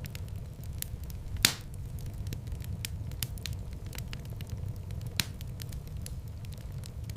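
Fire burning in a fireplace: a steady low rumble of flames with many scattered sharp crackles, and a louder pop about one and a half seconds in and another a little after five seconds.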